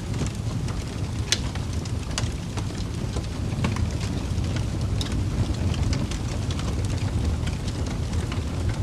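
Wood fire in a fireplace crackling, with irregular sharp pops, one louder about a second in, over a steady low rumble of the flames.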